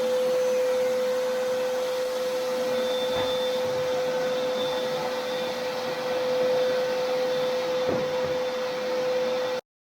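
A small electric motor running steadily: one strong steady whine over a rush of air-like noise. The sound cuts off abruptly near the end.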